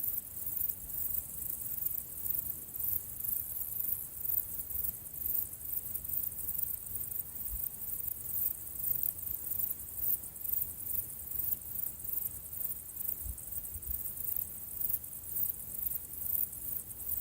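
High-pitched insect chirring, pulsing evenly a few times a second over a faint low rumble.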